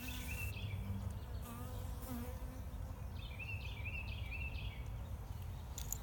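Honey bees buzzing steadily as they come to drink at the water. Short high chirps repeat near the start and again in the middle.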